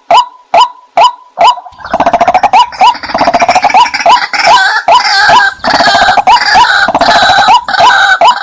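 White-breasted waterhen calls used as a hunting lure: a fast, even run of single calls, about two and a half a second. About two seconds in they give way to a louder, harsher chorus of overlapping calls, which breaks back into single calls at the very end.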